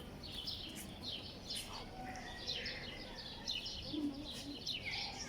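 Many small birds chirping, with short overlapping calls following one another continuously.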